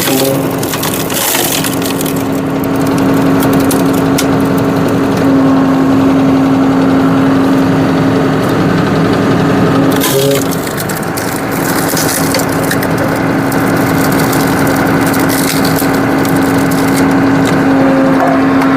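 Tractor-mounted hydraulic log splitter forcing through a large log: wood cracking and splintering over the steady hum of the running tractor and hydraulic pump. The log splits sharply about a second in and again around ten seconds.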